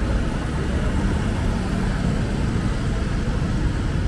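Steady low rumble of motor traffic, a continuous engine drone with no distinct events.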